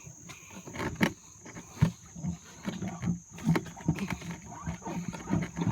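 Wheelbarrow with a flat tire being pushed through mud: irregular knocks, clunks and low rumbling, with a steady high insect drone behind it.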